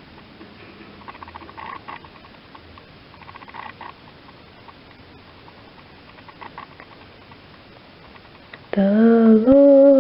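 Soft bursts of rapid clicking from a pet cockatiel, coming a few seconds apart. Near the end a woman starts singing a hymn.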